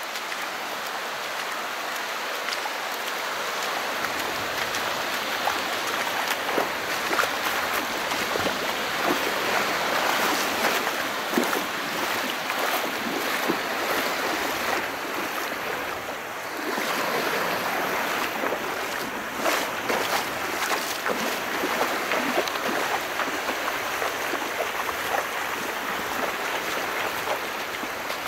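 Calm sea: small waves washing and splashing in a steady rush of water, swelling louder then easing briefly about sixteen seconds in before building again.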